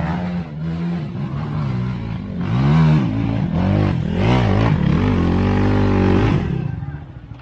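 Off-road vehicle engine running under load, revved hard up and down several times from about two and a half seconds in, then easing off near the end.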